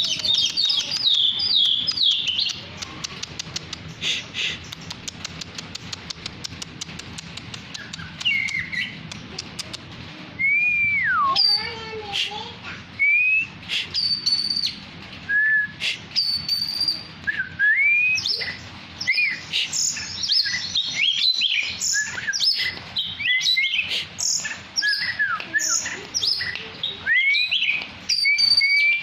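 Oriental magpie-robin singing a long, varied song of whistled notes, slurred glides and chirps, opening with a fast run of short clicking notes.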